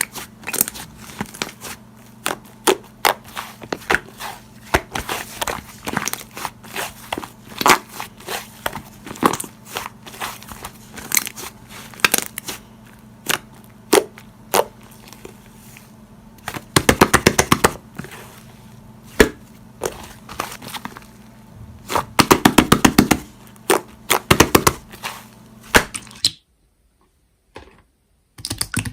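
Slime being squeezed and pressed by hand, giving sharp crackling clicks and pops, with two stretches of rapid clicking from fast pressing. It cuts to silence near the end.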